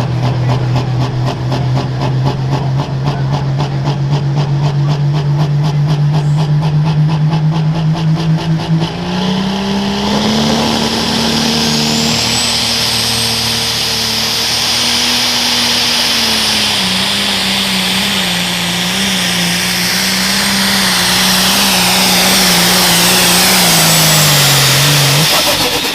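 Pro stock diesel pulling tractor running at full throttle down the track. The engine note climbs slowly, then steps higher about nine seconds in as a high turbo whistle comes in. It holds there, then falls away as the engine winds down near the end.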